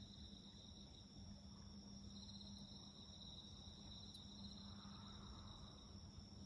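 Faint, steady trilling of crickets, with a low hum underneath and a single soft click about four seconds in.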